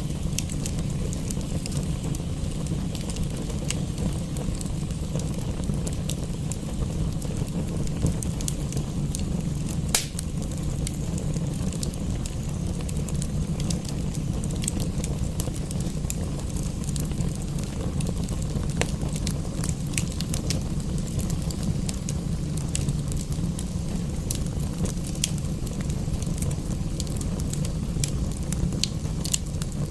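Wood fire crackling in a fireplace, with irregular sharp pops over a steady low rumble; one pop about ten seconds in stands out above the rest.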